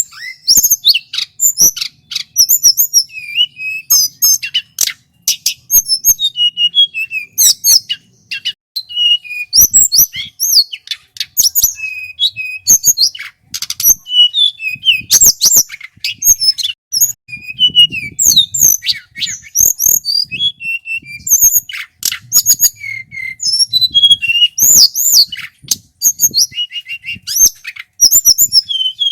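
Male tledekan gunung (a mountain blue flycatcher) singing loudly and continuously: a fast, varied string of sharp high chirps, whistled slurs and short trills with hardly a pause.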